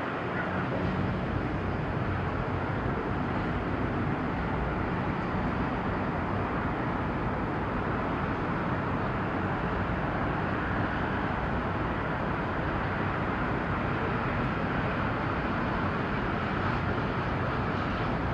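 Steady low engine hum from vessels at the berth, mixed with the general noise of the harbour, with no distinct events.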